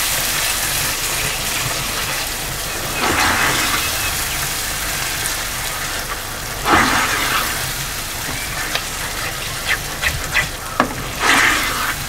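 A thick spiced masala gravy sizzling in hot oil while a spatula stirs it through the pan. There are three louder scraping swishes, about three, seven and eleven seconds in, and a few light clicks of the spatula against the pan near the end.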